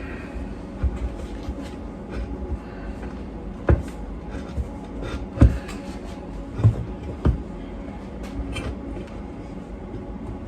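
Scattered knocks and clunks as a lawn tractor tire and tube are worked onto a steel wheel rim by hand, several sharp ones a second or so apart in the middle, over a steady low hum.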